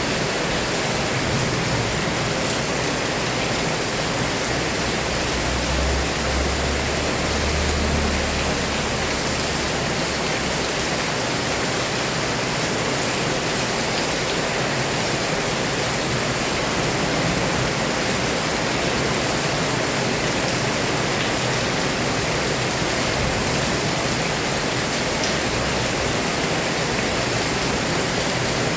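Heavy rain pouring steadily, a dense, even hiss. A brief low rumble comes in about six seconds in and fades by about eight seconds.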